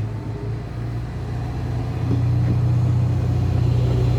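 Stadler GTW diesel multiple unit pulling away from the platform. The low diesel engine note steps up and grows louder about two seconds in as the train accelerates.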